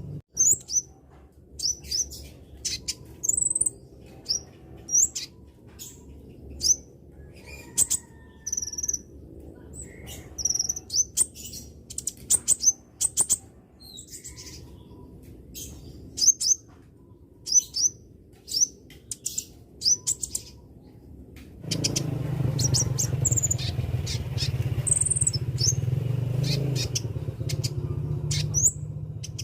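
Konin bird giving short, high chirping calls, repeated about once a second, a lure call used to prompt young konin birds to sing. About three quarters of the way through a louder low steady rumble joins under the chirps.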